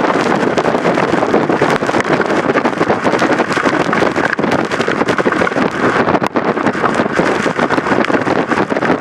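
Hurricane-force wind blowing hard across the microphone: a loud, unbroken rush, constantly crackling with buffets.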